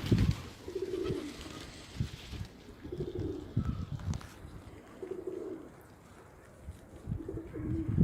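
Pigeon cooing: four short low coos, about two seconds apart.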